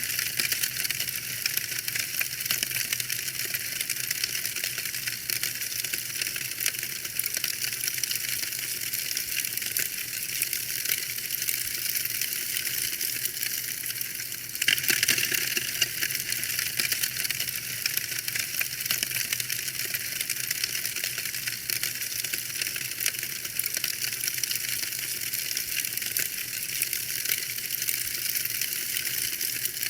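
Wood fire in a fireplace crackling steadily: a dense run of small pops and snaps over a soft hiss, with a brief louder flare of crackling about halfway through.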